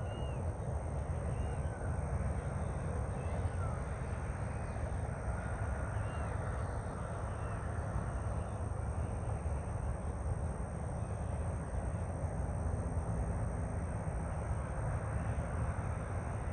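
Open-air ambience: a steady low rumble with faint, short bird calls now and then, mostly in the first half.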